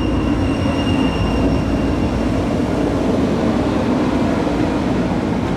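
Light rail train running past, a steady loud rumble of wheels on the rails with a thin high squeal that fades out about two seconds in.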